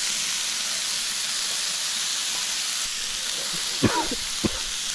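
Chicken thighs, sliced red onions and green peppers sizzling steadily on a hot 3 ft flattop griddle, with a couple of short coughs near the end.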